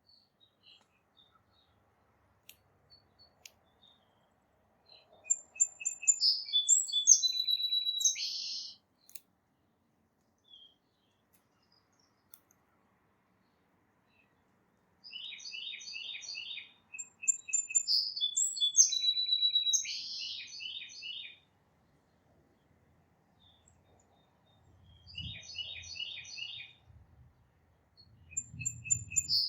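A songbird singing, repeating a complex song of quick, high notes and trills about every five seconds, with pauses between songs.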